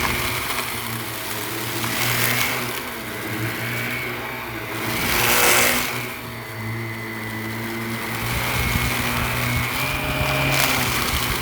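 Shark Navigator upright vacuum cleaner running over carpet: a steady motor hum and whine, with a louder rushing swell about every three seconds, the loudest about halfway through.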